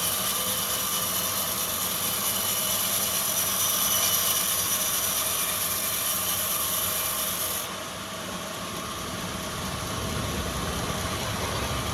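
Woodworking machinery in a plywood mill running steadily as wood is worked through it; the high hiss cuts off abruptly about eight seconds in, leaving a lower, steadier machine sound.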